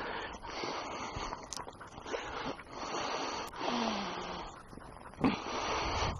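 Heavy breathing from a hiker climbing uphill: a run of noisy breaths, each about a second long, with a short low voiced sound about two-thirds of the way through.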